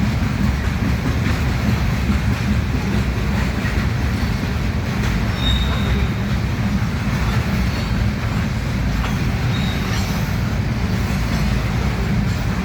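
Freight train of loaded gravel cars rolling past, a steady rumble of steel wheels on rail, with two brief high wheel squeals, one about midway and one near the end.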